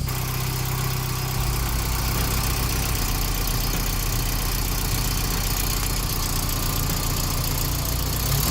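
Mazda Miata's swapped-in four-cylinder engine idling steadily on its first run after the swap, running well.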